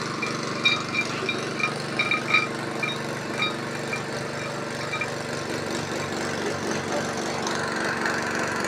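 An engine running steadily at a constant speed. Over the first few seconds there is a string of short, high-pitched tones at uneven intervals, and the hum grows slightly louder near the end.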